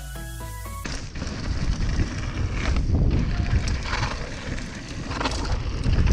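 A short music sting ends about a second in, followed by a loud, steady rumble of wind-like noise buffeting the microphone, with a few short hissy bursts.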